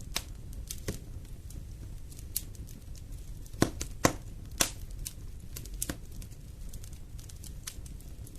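Wood fire burning in a fireplace: a steady low rustle of flames with irregular sharp crackles and pops of burning logs, the loudest a few pops about halfway through.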